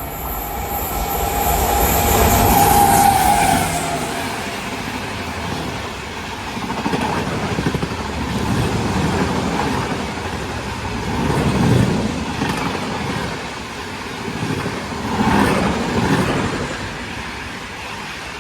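Express train passing through a station at speed without stopping. A steady tone sounds over the first few seconds, then the wheels rumble and clatter over the rail joints, swelling several times as the coaches go by, and fading near the end.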